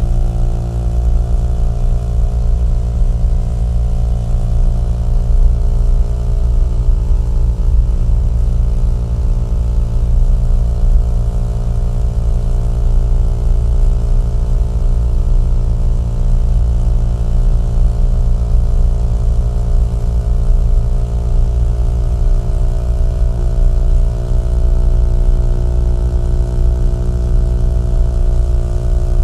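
Small-displacement single-cylinder motorcycle engine and exhaust running steadily at cruising speed, holding an even pitch with no gear changes.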